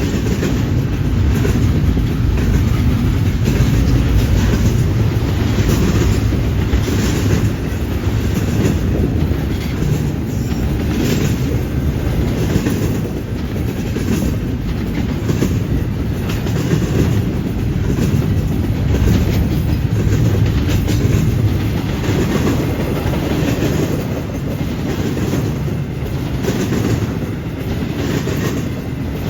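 Freight train rolling past at steady speed: a low rumble of wheels on rail, with a steady run of clacks as the cars' wheels cross rail joints and the junction switch.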